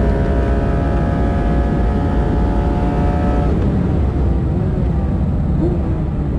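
Porsche 911 GT3 RS's naturally aspirated 4.0-litre flat-six running hard on track. It holds a steady note for about three and a half seconds, then the clear tones give way to a rougher sound.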